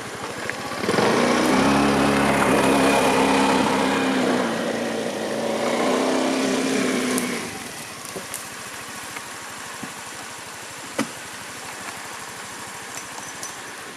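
A small scooter engine running, steady in pitch: it comes in loud about a second in, holds for about six seconds, then fades away, leaving a steady hiss with a single click.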